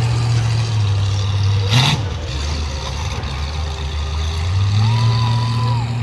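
Mini monster truck engine running hard, its pitch dropping off about two seconds in and rising again near five seconds, with a brief burst of noise just before the drop.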